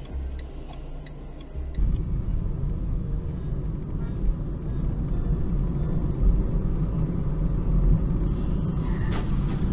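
Light regular ticking, about two a second, then a sudden switch to the loud, steady low rumble of a vehicle driving, as heard from a dashcam.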